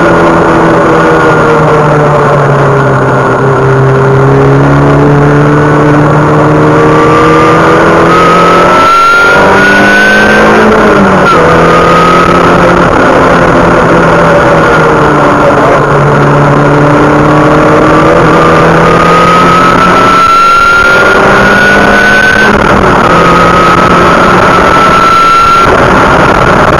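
A car engine heard from inside the cabin while being driven hard on a track. Its pitch climbs steadily under acceleration and drops sharply at upshifts, about ten seconds in and again a little after twenty seconds, over a loud rush of wind and tyre noise.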